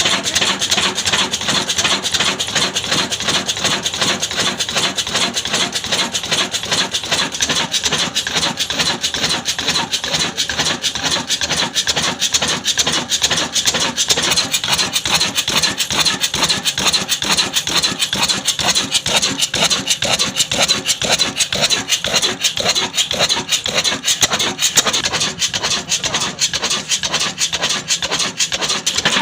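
Old 18 HP diesel engine running steadily, driving a saw that rasps through wood.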